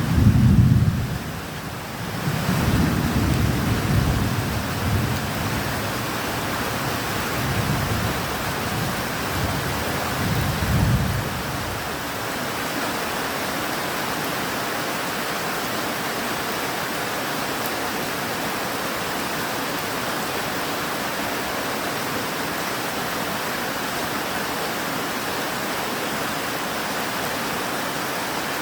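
Steady rain with rolling thunder: low rumbles swell and fade several times over the first eleven seconds or so, then die away, leaving just the even hiss of the rain.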